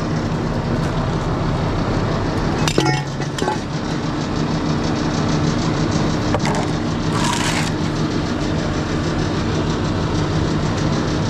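Concrete pump truck's engine running steadily. There is a sharp metallic clank about three seconds in and a brief hiss about seven seconds in.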